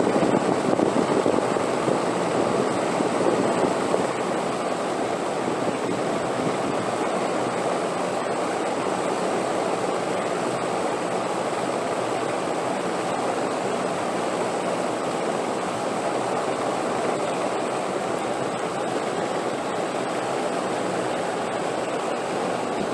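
Steady rushing wind with no gusts or breaks, a little stronger for the first few seconds and then even.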